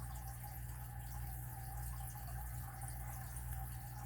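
Steady low hum with a thin higher tone over a faint hiss: background room tone, with no distinct pick clicks.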